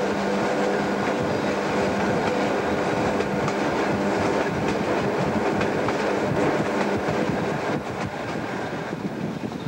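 Diesel-hauled passenger train running, heard from on board: a steady locomotive engine drone with wheels clicking over the rails.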